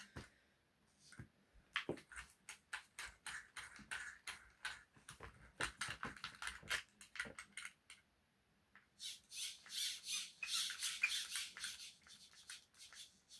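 Arrma Mojave Grom RC car being test-run after its front differential was replaced: a quick string of short clicks and squeaks as the motor and drivetrain are blipped, then rapid bursts of high hissing whir from about nine seconds in.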